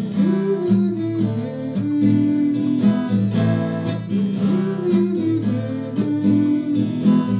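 Acoustic guitar strummed in a steady rhythm: an instrumental passage between sung lines of the song.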